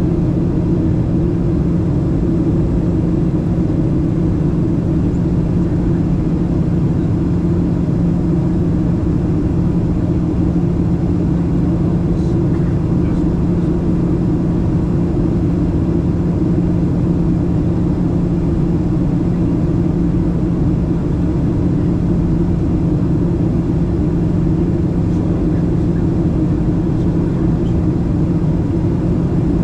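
Cabin noise of a Boeing 737-700 with CFM56-7B engines: a steady drone of engines and airflow with a strong low hum, unchanging throughout.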